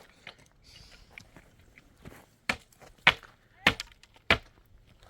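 Four sharp blows on wood, about 0.6 seconds apart, in the second half: a tool striking timber during building work.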